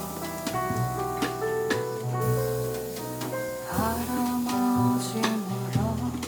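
A live jazz trio of piano, double bass and drums playing an instrumental passage: piano chords over a walking bass line, with cymbal strokes.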